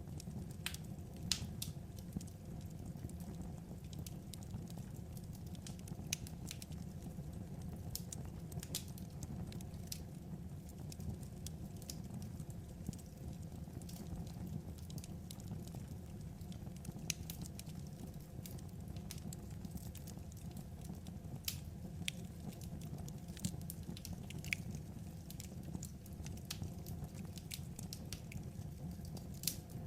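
Wood fire crackling: a steady low rumble with irregular sharp pops and snaps.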